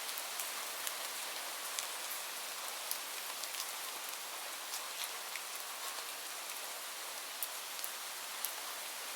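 Steady rain hiss with scattered individual drops ticking sharply on a surface.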